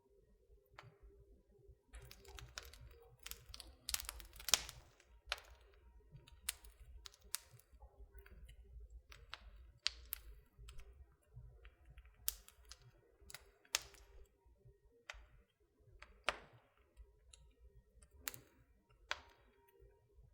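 Wood fire in a fireplace crackling: irregular sharp pops and snaps, the loudest about four and a half seconds in, over a low steady rumble.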